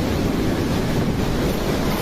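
Storm wind rushing hard and steadily, buffeting the microphone with a deep rumble.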